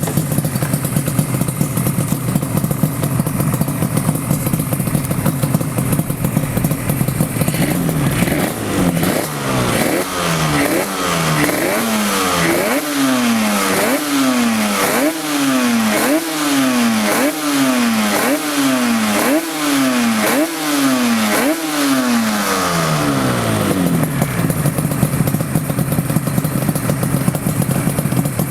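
Yamaha RZ two-stroke parallel-twin engine (an RZ350 engine in an RZ250) idling, then blipped about a dozen times in quick succession, roughly once a second, each rev rising sharply and falling back, before settling to idle again.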